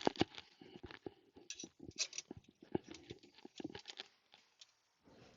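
Irregular light clicks, taps and rattles of small metal parts and tools being handled and fitted by hand, dying away near the end.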